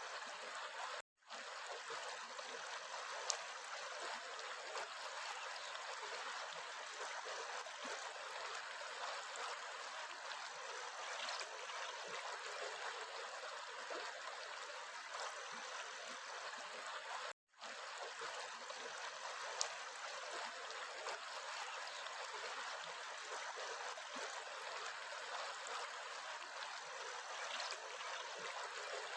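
Water of a small stream running and trickling, a steady even rush. It cuts out completely twice for a moment, about a second in and a little past the middle.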